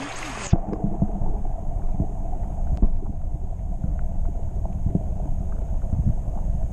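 Pond pump priming as it draws water: a rushing hiss that cuts off about half a second in, then a steady low rumble with irregular gurgling knocks as water and air pass through the pump.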